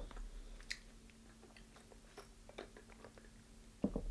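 Close-miked chewing of crispy deep-fried chicken: scattered small crunches and mouth clicks, with a few louder clicks near the end.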